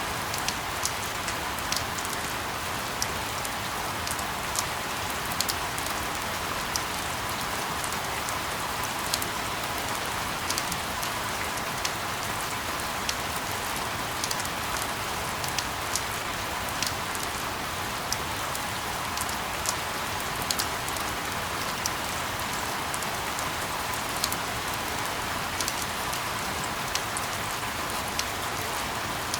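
Steady rain, an even hiss peppered with many small sharp drop ticks, unchanging throughout.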